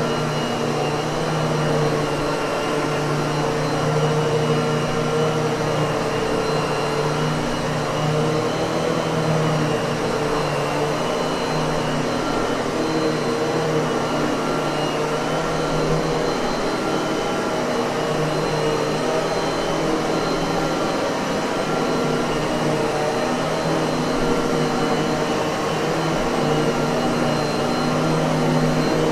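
Miele vacuum cleaner running steadily: a constant motor hum with several steady tones over the rush of air.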